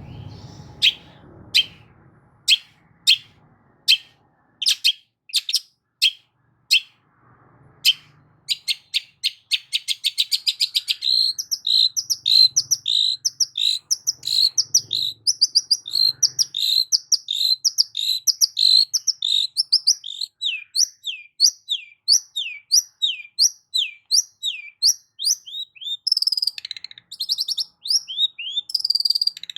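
Long-tailed shrike singing: sharp, separate harsh notes about twice a second, breaking after about eight seconds into a fast chattering run and then a long series of quick, down-slurred notes.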